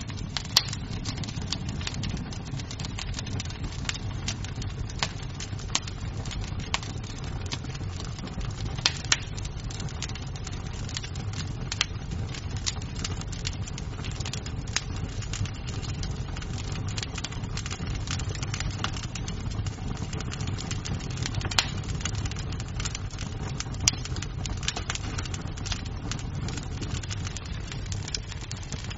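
Wood fire crackling in a fireplace: a steady low rumble of flames under frequent small snaps of burning wood, with a handful of louder pops scattered through.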